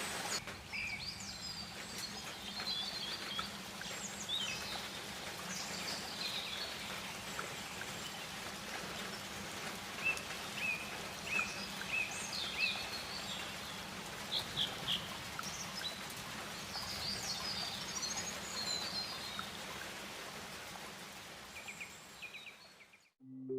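Forest ambience: scattered short bird chirps and trills over a steady hiss, cutting out just before the end.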